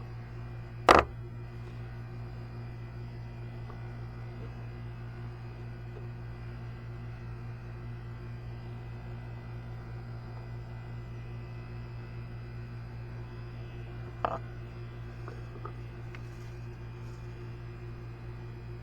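Steady low hum, with one sharp knock about a second in and a fainter knock about fourteen seconds in.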